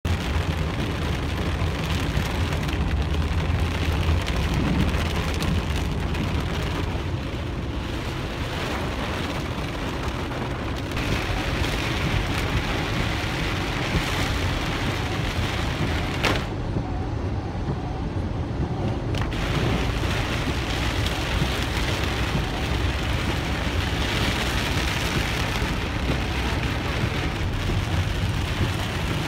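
Heavy rain beating on a car's windshield and roof, heard from inside the car, over a steady low rumble of the car and traffic. The hiss of the rain thins out for a few seconds past the middle, then returns.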